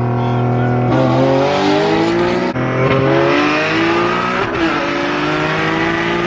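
Single-turbo Nissan 370Z's V6 engine accelerating hard, its pitch climbing through the gears with two quick upshifts, about 2.5 and 4.5 seconds in, before it settles to a steady note.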